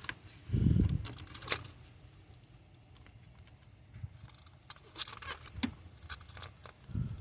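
Scattered light clicks and rattles of hands and tools handling parts in a car's engine bay, with a low thump about half a second in and another near the end.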